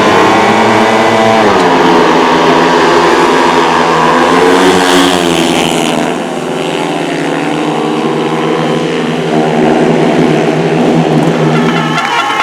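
Several speedway motorcycles racing, their single-cylinder 500 cc methanol engines running hard. The engine pitch dips and climbs again as the riders back off and open the throttle, and the sound swells loudest about four to five seconds in before easing back.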